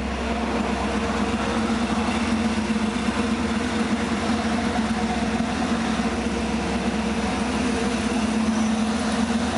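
Ford 460 big-block V8 idling steadily, a constant even hum with no revving.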